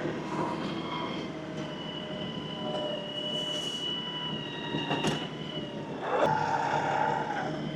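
LS XR315 compact tractor's engine running steadily, with high whining tones over it as the front grapple works. A sharp knock comes about five seconds in, and the sound swells for about a second from about six seconds in.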